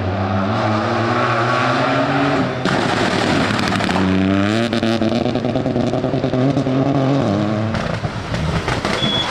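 Rally car engine at full throttle, the revs climbing hard, then a short break about two and a half seconds in and a second climb from about four seconds. Near the end the engine note drops away into a rougher rush of noise.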